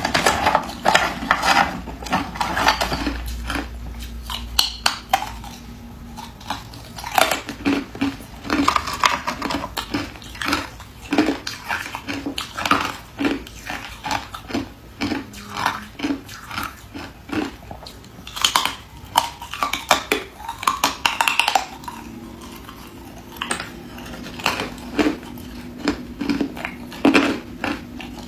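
A person biting and chewing hard ice close to the microphone: a quick, irregular run of sharp crunches and cracks, several a second, easing off briefly in places.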